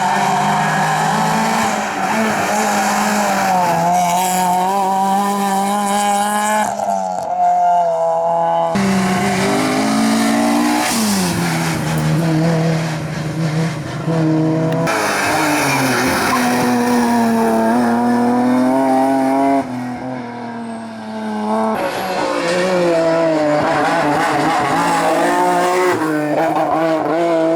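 Hillclimb race cars driven hard, engines revving up and dropping back with gear changes, with tyres squealing. The sound changes abruptly several times, as separate passes are cut together.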